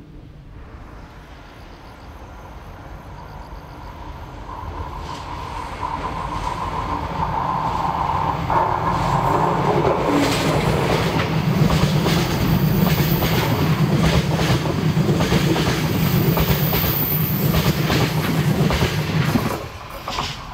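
A DD51 diesel-hydraulic locomotive hauling a freight train approaches and passes, growing steadily louder, with a steady high tone during the approach. Once it is close, the wheels clatter rhythmically over the rail joints, until the sound drops off suddenly near the end.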